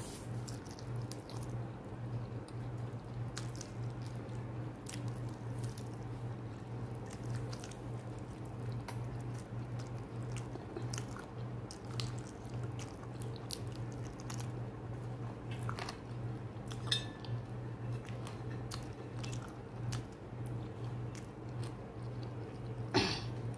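Close-up eating sounds of rice and chicken curry eaten by hand: soft wet chewing with many small mouth clicks, over a steady low hum. Near the end a slightly louder knock as fingers gather food on a ceramic plate.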